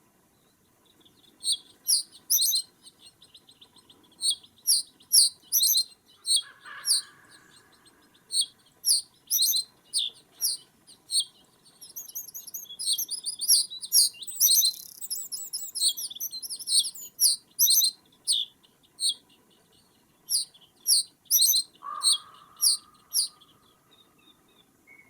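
Small birds calling: many short, high-pitched chirps in quick series, densest around the middle. A lower, harsher call comes twice, about six and a half seconds in and near the end.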